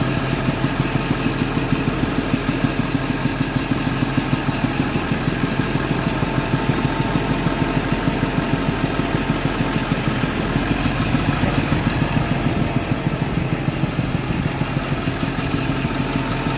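1999 Ford F-450 crane truck's engine running steadily at a fast, even pulse, driving the PTO hydraulic pump that powers the crane.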